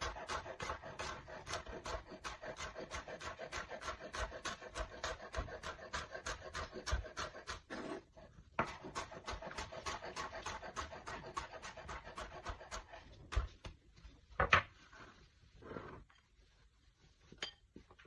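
Steady, rapid strokes of kitchen food preparation, about four or five a second, pausing briefly about eight seconds in and stopping a few seconds before the end, followed by a few clinks of utensils or dishes.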